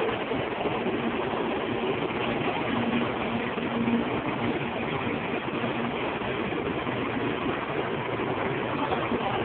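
Taiwan High Speed Rail 700T high-speed train rolling along the platform as it slows to a stop on arrival: a steady rumble and hiss of the passing cars with a faint steady hum, heard through a phone's microphone.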